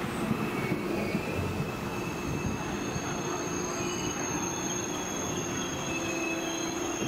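Deutsche Bahn ICE high-speed train pulling slowly into a platform, its carriages rumbling past while a steady high-pitched squeal from the wheels and brakes sets in about two seconds in and holds.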